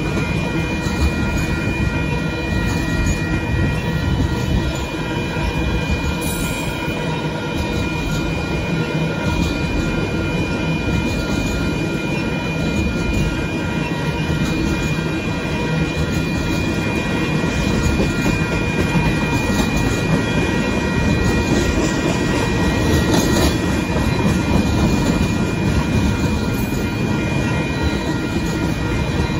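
Union Pacific freight train of tank cars rolling past close by: a steady rumble and rattle of steel wheels on the rails, with thin steady high-pitched tones running through it.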